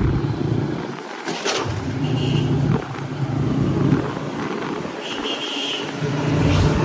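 Motorcycle engine running as the bike is ridden along a road, its hum dipping and swelling with the throttle.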